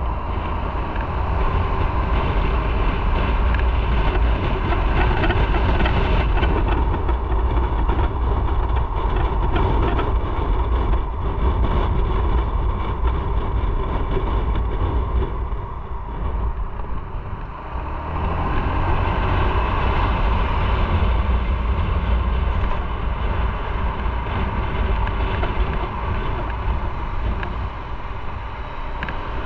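Motorcycle on the move: engine running under steady wind and road noise on the rider's microphone, briefly quieter about two-thirds of the way through before building again.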